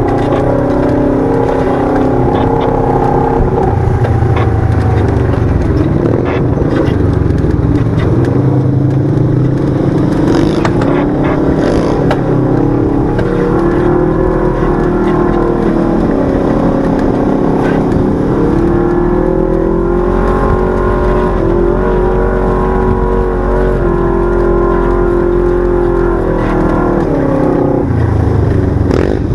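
Side-by-side UTV's twin-cylinder engine running under changing throttle, its pitch rising and falling again and again, with a few short knocks.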